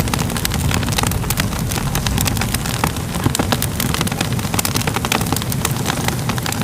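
Crackling fire: a steady low rumble of flames with many sharp pops and crackles.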